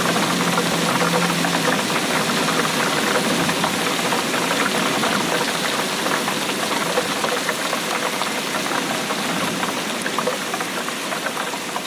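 Steady rainfall, a dense patter of drops over a constant hiss.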